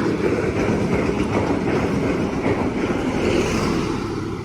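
NSW XPT diesel-electric passenger train running through the station: a steady, heavy rumble of power cars and wheels on the rail that starts to fade near the end.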